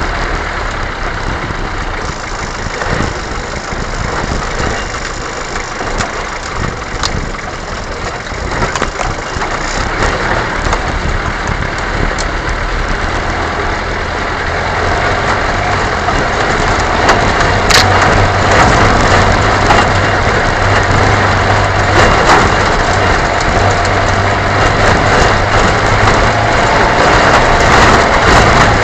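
A vehicle engine running under a dense, noisy wash of sound, getting louder about halfway through, with a steady low hum from then on.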